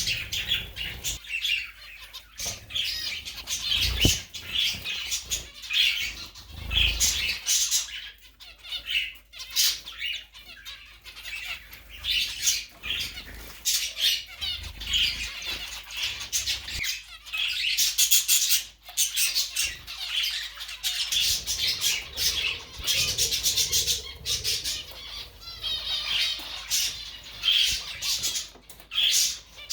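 Pet bird calling over and over, a busy run of short chirps and squawks.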